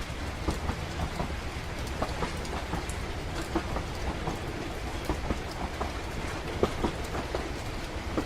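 Moving railway carriage: a steady low rumble with light clatter, layered with rain pattering and scattered drips.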